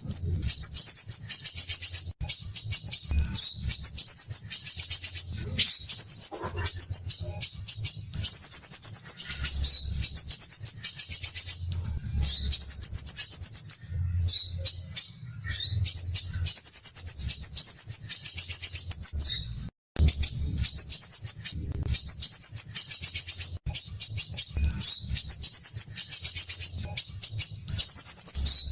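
Crimson sunbird (sepah raja) singing fast, tightly packed, rough-edged high trills in phrases of one to two seconds, nearly back to back with brief gaps.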